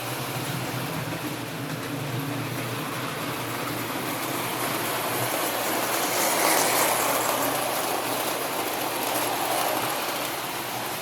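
Lionel prewar standard gauge electric toy train running on tinplate track: a steady motor hum with wheel and rail rumble, growing louder about halfway through as it comes closer, then easing off.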